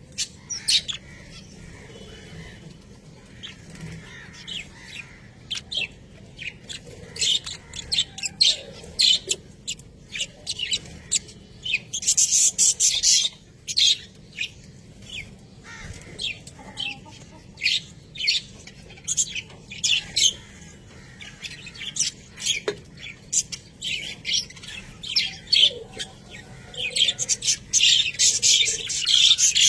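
A group of budgerigars chattering: many short, rapid high-pitched chirps and warbles, busiest about twelve seconds in and again near the end.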